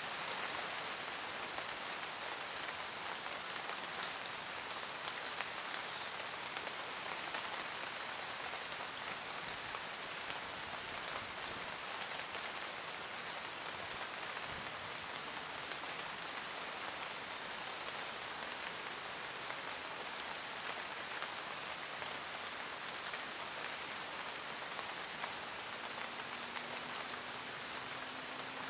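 Steady rain falling in a forest, a constant hiss of drops with scattered individual drop ticks on leaves.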